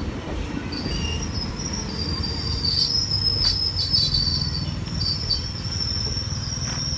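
Indian Railways express coaches rolling away on the rails: a steady low rumble with high-pitched wheel squeal over it, strongest around the middle.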